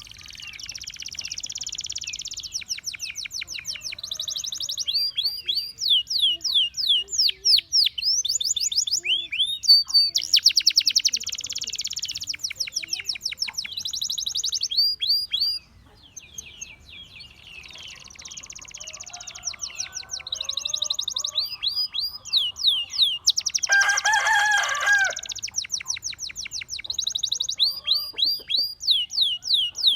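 Gloster canary singing: phrases of fast trills and rolls alternate with quick series of high, down-sweeping notes, with a short lull about halfway through. About two-thirds of the way in comes a brief, louder call that is lower in pitch.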